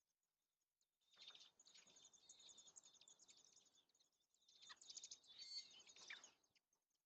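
Robins at the nest: faint rapid high chirping over a rustling noise, in two spells, the first starting about a second in and lasting about three seconds, the second shorter, ending near the end.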